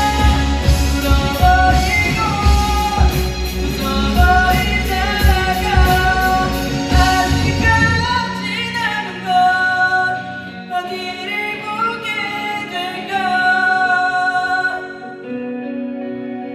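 Live student rock band playing a pop ballad with a lead vocalist singing over drums, bass, guitars and piano. About eight seconds in the drums and bass drop out, leaving the voice over guitars and piano as the song winds down more quietly.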